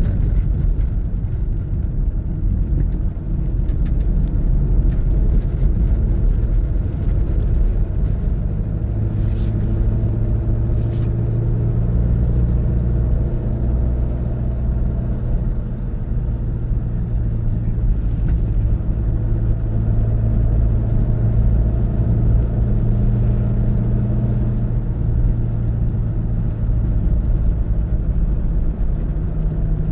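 A car driving, with a steady rumble of engine and road noise and a low engine hum that shifts a little in pitch now and then.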